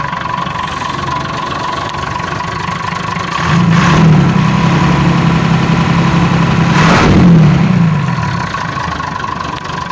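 Perkins 6.354 inline-six diesel engine idling with a misfire, then revved up about three and a half seconds in, held, and let fall back to idle about eight seconds in. The miss comes with blue smoke, which the owner suspects is a broken ring or piston.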